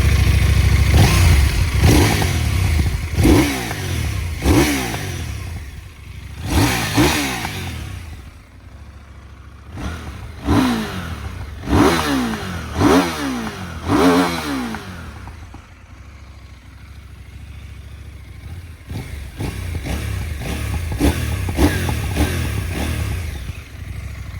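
KTM 990 Duke's V-twin engine on its stock exhaust, blipped again and again: each quick rev rises sharply and then falls back to idle. The last few seconds hold steadier running with a few small blips.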